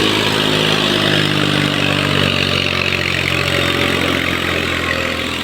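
Diesel tractor engine running steadily at a low, even speed, its pitch shifting slightly about a second and a half in.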